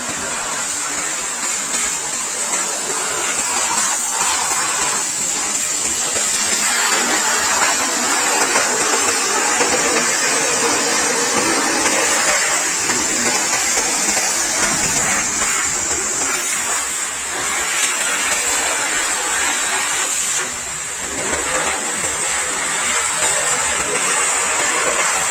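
High-pressure washer running, its spray jet hissing steadily against the motorcycle, with a brief dip about twenty seconds in.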